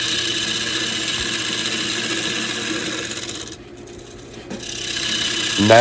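Wood lathe spinning a soft, spalted sweetgum blank while a gouge scrapes steadily against the wood, over the steady hum of the lathe motor. The cut lets up for about a second past the middle, then resumes.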